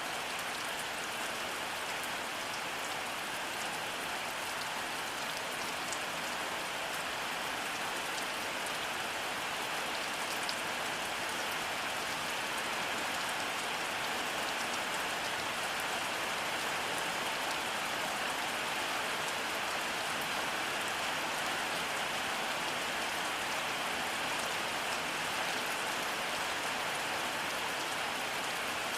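Steady rainfall: an even, unbroken hiss of rain with faint scattered drop ticks and no thunder.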